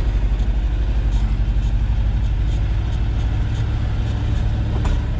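1973 Ford F-250's 360 V8 running steadily as the truck drives, a loud, even low engine pulse.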